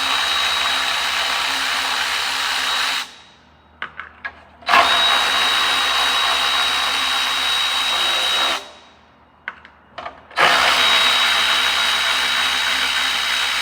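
Cordless power drill/driver running three times, each run about four seconds of steady high whine, with small clicks in the pauses between: spinning out 10 mm bolts.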